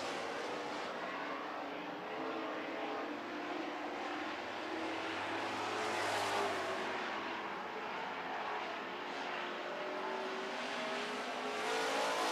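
Several Super Truck race engines running together on a dirt oval, the field's sound swelling louder about midway and again near the end as the trucks come around.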